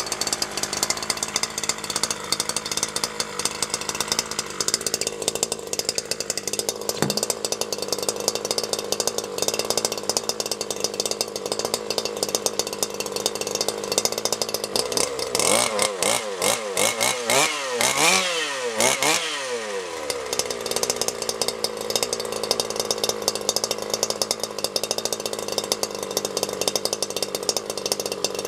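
Zenoah 26cc two-stroke engine of an FG Hummer RC car running at a steady idle, with a run of several quick revs rising and falling in pitch about halfway through before it settles back to idle.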